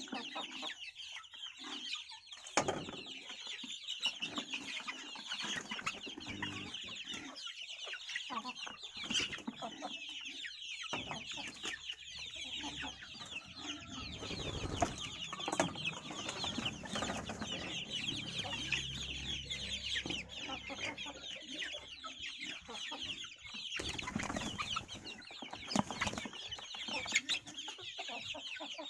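A flock of chickens clucking and chattering continuously, many birds calling at once, with scattered pecking or knocking clicks.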